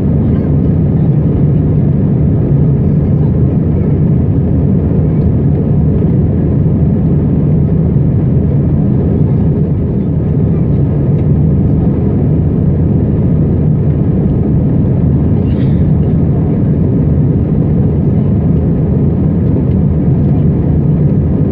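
Airbus A320 passenger cabin in flight: a steady, loud low roar of the engines and airflow that does not change.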